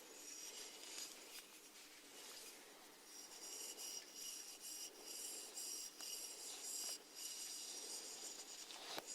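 Faint, close-miked scratchy crackling from snails, going in irregular stretches with brief breaks, with one sharp click near the end.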